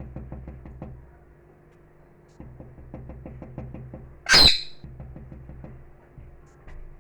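Pet parrot giving one loud, harsh squawk about four and a half seconds in, after runs of quick ticking, about eight to ten a second.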